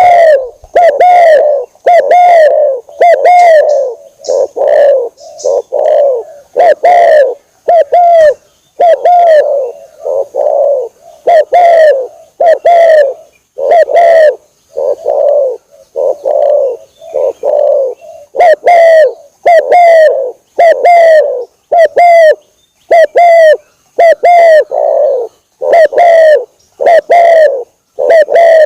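Spotted dove (tekukur) cooing loudly, a lure-call recording: short coo notes repeated at about one a second, with a few brief pauses between runs.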